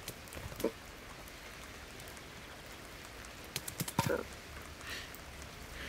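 Steady hiss of heavy rain, with a few sharp taps a little past halfway. Two short cat-like vocal sounds come through it, one about half a second in and one just after the taps.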